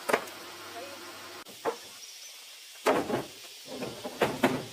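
A few sharp knocks and clatters: one at the start, a lighter one partway through, then two longer rattling bursts near the end.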